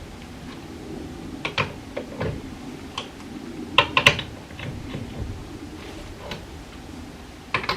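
Scattered metallic clicks and clanks of a socket, extension and breaker bar working lug nuts loose on a car wheel, loudest a pair of clanks about four seconds in.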